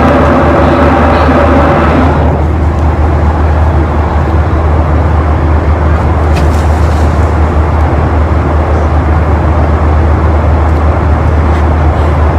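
Steady low rumble with an even noise of road travel, vehicle road noise. A steady pitched tone over it stops about two seconds in.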